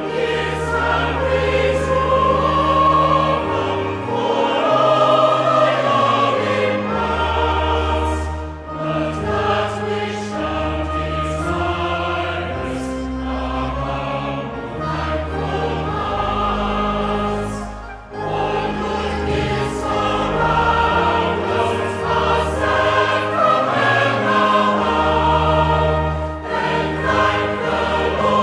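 A choir singing a slow hymn with accompaniment, held chords changing every second or two over a deep bass line, with a short break between phrases about two-thirds of the way through.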